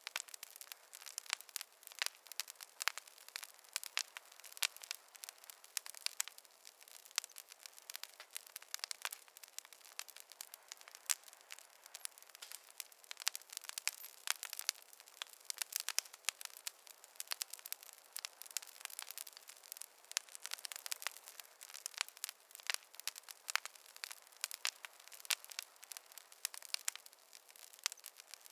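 Wood fire crackling: a dense, irregular run of sharp pops and snaps over a faint hiss, with no low rumble.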